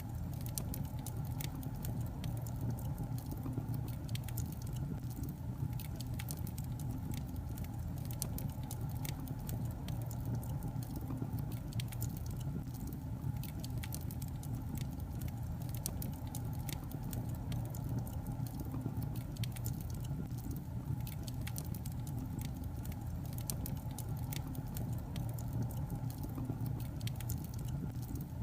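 Wood fire burning in a fireplace: a steady low rumble of the flames with many small irregular crackles and pops from the logs.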